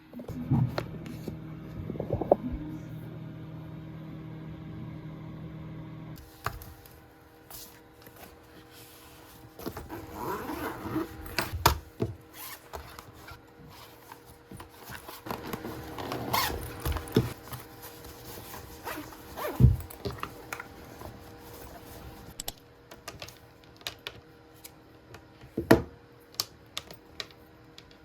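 Everyday handling sounds: objects being picked up and set down, with scattered clicks, knocks and rustling. For about the first six seconds a steady hum runs under them, then it stops and the sharpest knocks come about two-thirds and nine-tenths of the way through.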